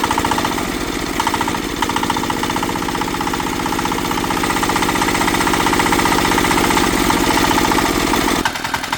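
Tractor engine, freshly rebuilt with new piston rings and connecting-rod bearings, running steadily with a fast, even chugging beat. The sound changes abruptly near the end.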